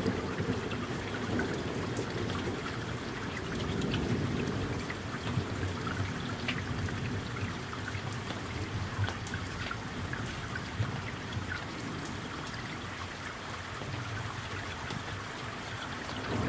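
Steady summer rain falling, with scattered drops pattering and water trickling over a low rumble of distant thunder.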